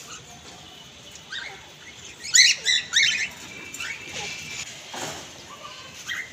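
Pet parrot giving short, shrill squawks, a quick run of them about two to three seconds in and a few more near the end.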